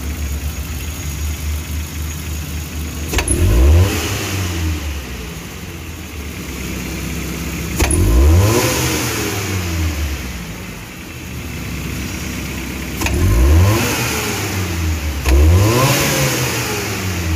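Suzuki Futura 1.5's four-cylinder engine idling, blipped four times with quick rises and falls in revs. It picks up promptly, now that a fouled spark plug that made it stumble and shake under sudden throttle has been replaced.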